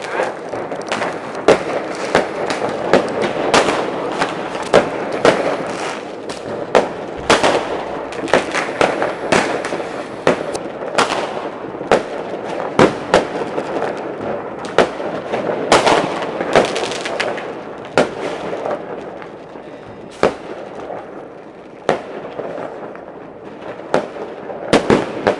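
Fireworks and firecrackers going off on all sides: irregular sharp bangs over a continuous crackle and rumble of many more distant bursts. The bangs thin out for a few seconds late on, then a quick cluster comes near the end.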